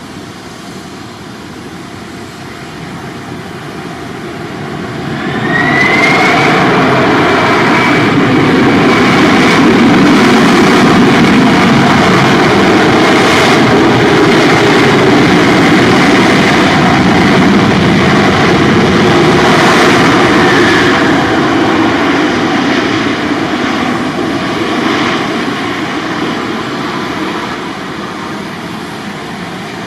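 Jet airliner's engines passing close: the rumble swells about five seconds in, with a high whine that rises and then holds, stays loud for about fifteen seconds, and then fades away.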